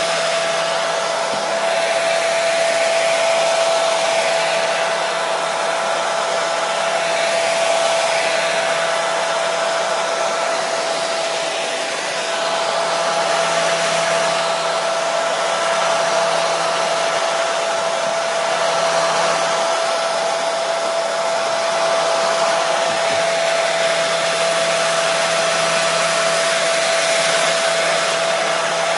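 Hair dryer running continuously: a steady airy rush with a constant motor whine, used as white noise to settle colicky babies.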